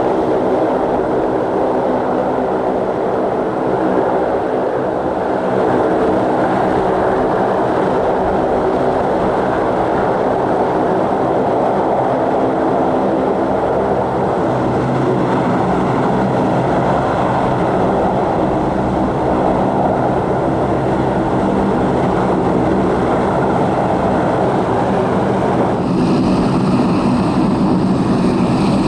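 Aircraft engines running steadily and loudly, with a stack of steady engine tones over a rushing noise; near the end a higher-pitched whine joins in.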